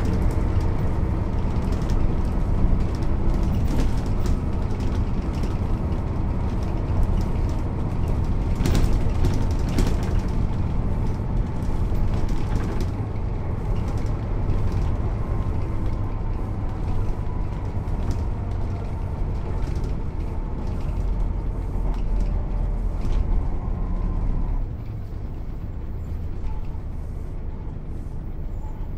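Mercedes-Benz O 407 bus with manual gearbox, its diesel engine running with the bus under way, a deep steady drone with scattered clicks and rattles. About 25 seconds in the low rumble drops off suddenly and the sound gets quieter.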